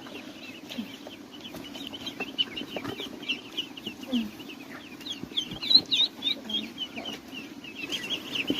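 Poultry calling: many rapid, high peeps overlapping continuously, with a few low clucks underneath and scattered light knocks. The peeping is busiest and loudest about two thirds of the way through.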